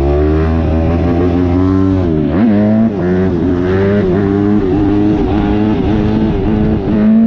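Dirt bike engine running and revving, its pitch dipping and climbing again about two seconds in, then holding fairly steady.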